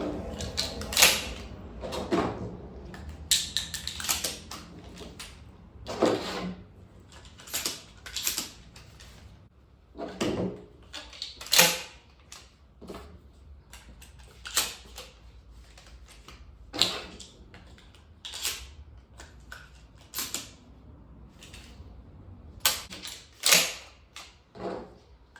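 Shotgun being loaded by hand: a string of irregular sharp metallic clicks and clacks as shells are pushed into the magazine and the gun is handled, about one every second or so, some in quick pairs.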